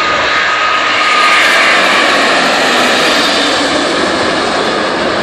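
Airbus A380's four jet engines running at takeoff thrust: a loud, steady roar that swells slightly about a second in, with a faint whine fading out early.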